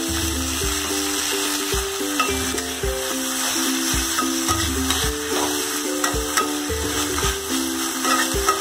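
Onion rings, green chillies and ginger sizzling in hot oil in a kadai, stirred now and then with a metal spatula. Background music with a steady beat plays over the frying.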